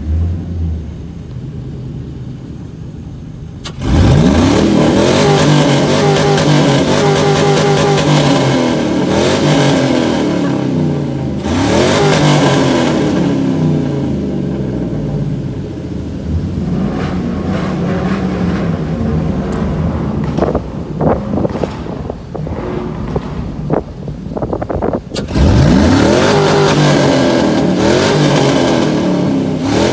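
Truck engine accelerating hard, its revs climbing sharply three times (about 4 s in, about 12 s in, and near the end) and running loud and steady in between.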